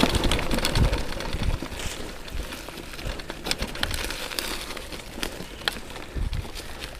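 Electric bike rolling over rough off-road ground: tyres crunching on dirt, with scattered sharp clicks and rattles and an occasional low thump from the bumps.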